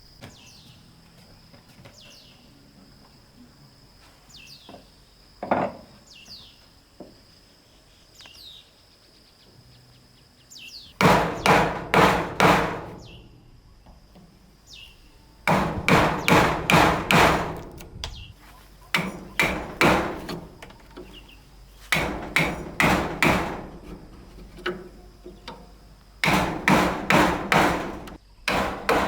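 Hammer striking wood in five quick runs of about three to seven blows each, roughly three blows a second, with short pauses between the runs. Before the hammering starts, insects trill steadily and faintly.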